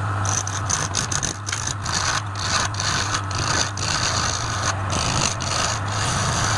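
Wood lathe running with a steady motor hum, while a turning tool cuts the spinning workpiece in a hissing scrape that breaks off briefly many times.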